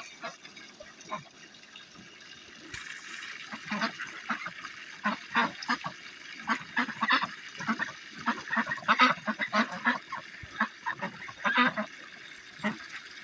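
Ducks quacking in a rapid, irregular run of short calls: a few at first, then several a second from about three seconds in.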